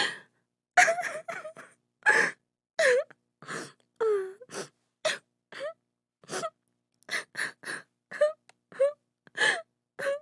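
A woman crying: short gasping sobs and breathy wails in quick succession, with a longer falling wail about four seconds in.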